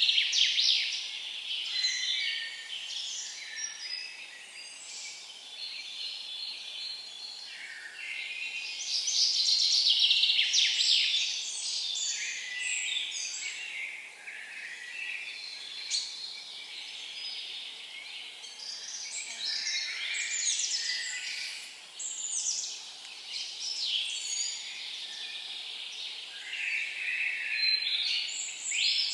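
Several songbirds singing at once, an unbroken chorus of high chirps and quick trills, loudest near the start and again about ten seconds in.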